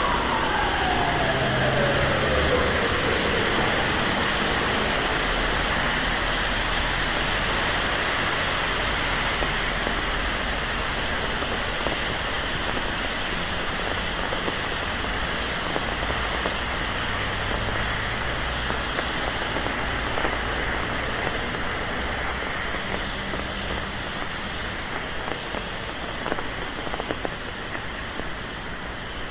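Steady rain falling on a city street, with light traffic beneath it. In the first few seconds a passing ambulance siren gives a last falling wail and fades out.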